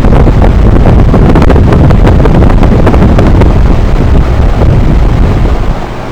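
Loud, gusting wind buffeting the microphone, rumbling and uneven, over a heat pump's outdoor unit running in heat mode. The buffeting eases near the end.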